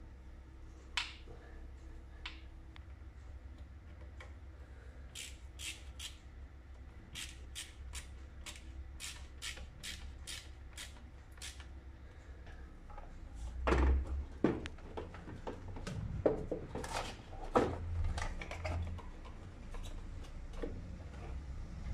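Screwdriver tightening a hose clamp on the engine's intake hose: a run of sharp clicks, about three a second. Later comes handling of the plastic air filter housing, with louder knocks and heavy thumps.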